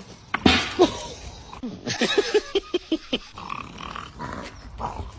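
A dog growling and barking: a couple of loud calls near the start, then a quick run of short, rapid sounds.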